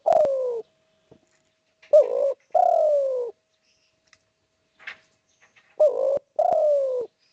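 Spotted dove cooing: repeated two-part phrases, a short coo followed by a longer coo that falls in pitch. About two seconds in a phrase comes, and another near the end.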